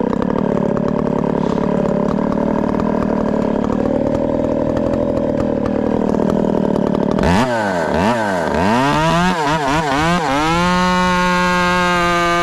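Two-stroke chainsaw cutting under load, its pitch sagging and wavering in the wood. About seven seconds in it comes free of the cut and the throttle is blipped several times, rising and falling, before it holds steady at high revs.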